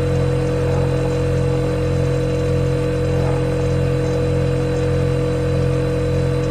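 Refrigerator compressor running with a steady, even hum, several low tones held constant over a faint hiss.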